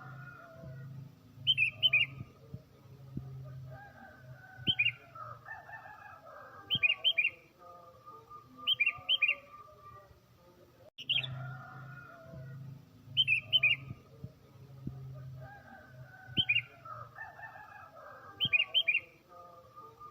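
Sooty-headed bulbul singing: short, bright phrases of three or four quick notes, repeated about every two seconds. Softer warbling carries on beneath them, over a low steady hum.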